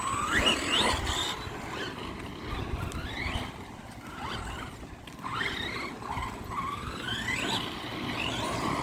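Electric motor of an Arrma Granite 4x4 3S RC truck whining up in pitch in short bursts of throttle, about four times, over a steady rumble.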